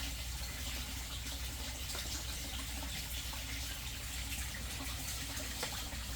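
Steady running and splashing water of a koi pond, with a low steady hum underneath.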